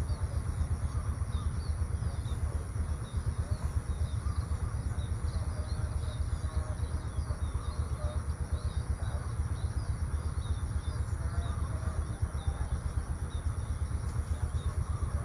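Outdoor ambience: small birds chirping here and there over a steady, fluttering low rumble, with a faint steady high-pitched tone above.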